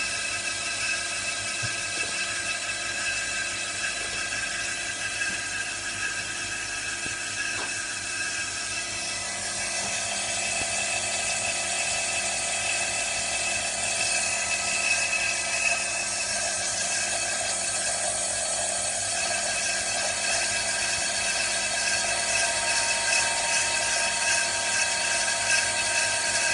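Small electric motor run by a Mitsubishi FR-S510WE inverter, giving a steady high whine of several tones that grows a little louder about ten seconds in. The inverter, dead before its repair, is working again.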